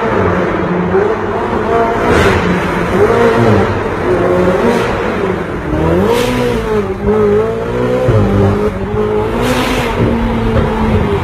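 Ferrari 488 GTB's 3.9-litre twin-turbo V8 running through an iPE titanium exhaust, its note rising and falling repeatedly as the revs change. A few brief sharp bursts of noise stand out, about two, five, six and nine and a half seconds in.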